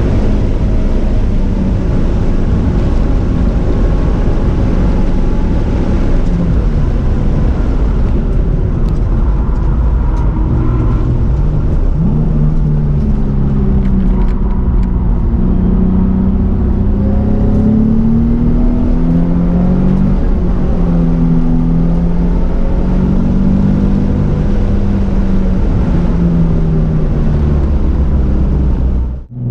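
Twin-turbocharged 2005 Nissan 350Z's VQ35DE V6 heard from inside the stripped-out cabin. It runs at full throttle near 6,000 rpm with heavy road and wind noise, then comes off the throttle for the corners, its pitch stepping up and down through gear changes. The sound drops out abruptly just before the end.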